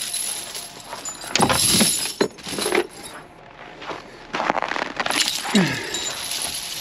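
Metal tire chains clinking and jangling as they are handled, with several sharp clinks of the links.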